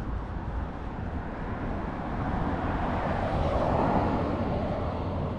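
Street traffic: a vehicle passes, its noise swelling about three seconds in and fading again, over a steady low rumble.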